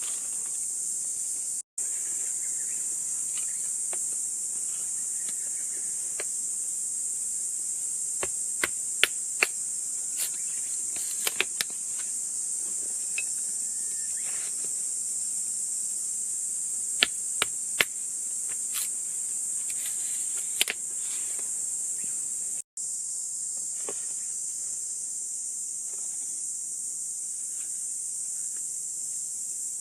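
Steady high-pitched chorus of insects chirring, with scattered sharp clicks and knocks in the middle and two brief moments where the sound drops out.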